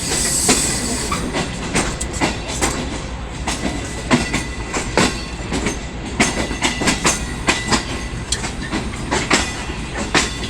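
Passenger train coaches rolling at low speed, wheels clattering over rail joints and points in an irregular run of sharp clicks over a steady rumble. A brief hiss sounds about a second in.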